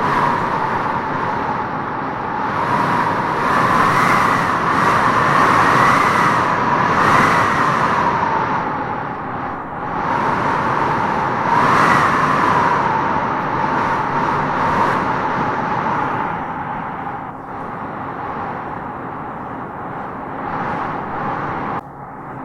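Strong wind howling through tropical trees, a continuous rushing noise with a moaning tone that swells and eases in gusts, strongest around four to seven seconds in and again around twelve seconds.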